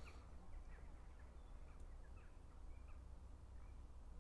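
Near silence: a few faint, short bird calls over a low steady rumble.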